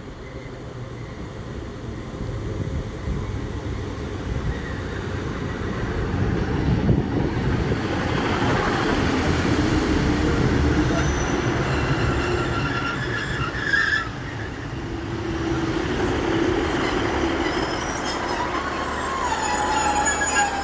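A Northern passenger train running into the station. Its wheels rumble, growing louder over the first few seconds, and high squeals from the wheels and brakes come and go as it passes alongside.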